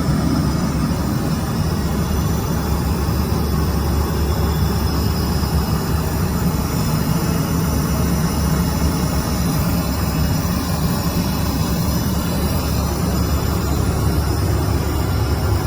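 Steady low rumble of cabin noise inside an Airbus A320-214 airliner, from its CFM56 jet engines and the airflow, holding an even level throughout.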